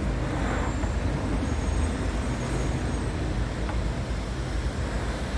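Mid-size engine-driven generator running steadily, a continuous low rumble.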